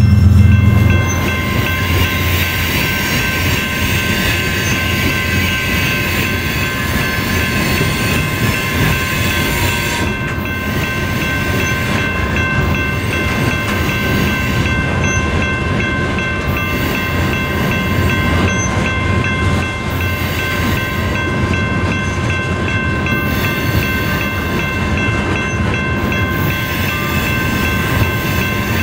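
Freight train of coal hopper cars rolling past, steel wheels running steadily on the rails, with a steady high ringing held over the rumble. A louder low hum ends about a second in.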